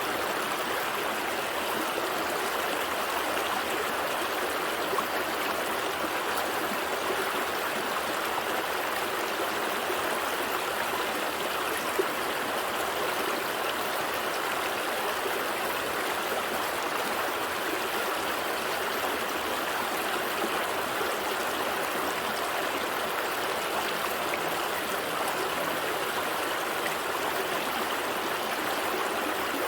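Gentle stream flowing steadily over rocks, a continuous rushing and trickling of water with a couple of brief splashes.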